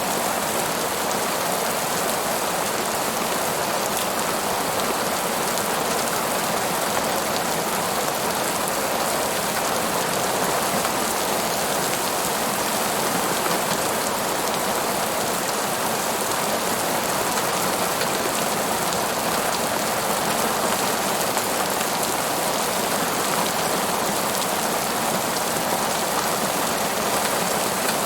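Steady rain falling on a surface, an even hiss of many drops with no letup.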